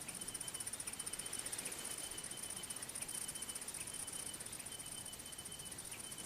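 Crickets chirping faintly: a steady, fast high trill, with a lower short chirp repeating about every two-thirds of a second.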